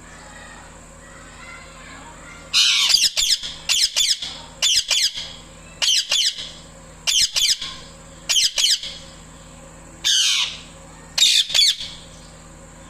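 Indian ringneck parakeet giving loud, shrill calls in about eight quick bursts of two or three notes each, repeated a little over a second apart, starting about two and a half seconds in. The owner says it is calling to a male parrot.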